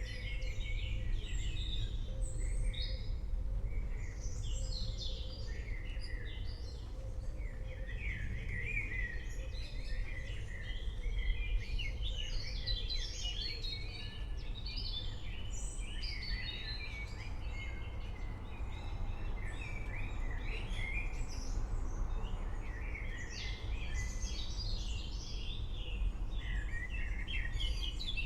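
Several songbirds chirping and singing in quick overlapping phrases, over a steady low rumble.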